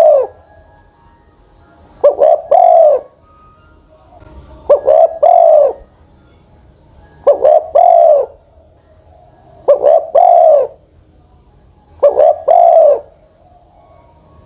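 Spotted dove (an old decoy bird) cooing: a three-note call whose last note is the longest, repeated steadily about every two and a half seconds, five full calls plus the tail of one at the start.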